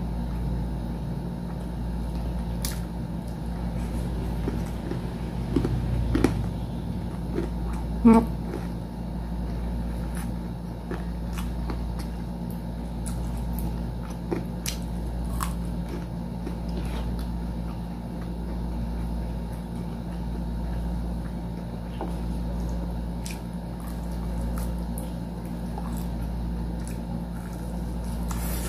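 Close-miked chewing and biting of food, with wet mouth sounds and small scattered clicks, over a steady low hum. A short hummed 'mm' from the eater about eight seconds in is the loudest moment.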